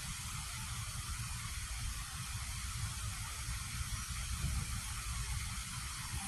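Steady outdoor hiss with low, uneven rumbling from wind buffeting the microphone.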